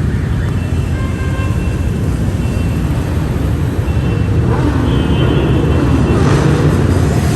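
Many motorcycle engines running together as a column of bikes rides past, getting louder over the last couple of seconds.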